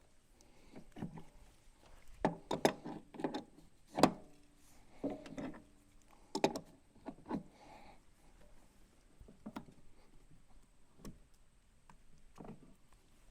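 Scattered clicks, taps and small clinks from handling pressure-washer fittings by hand while an O-ring is swapped. A few knocks ring briefly, like metal parts, and the sharpest comes about four seconds in.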